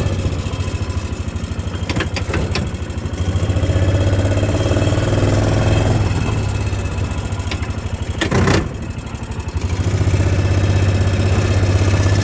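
Vehicle engine running as it drives slowly along, its note rising and easing off. There are a couple of clicks about two seconds in and a louder clunk near eight and a half seconds.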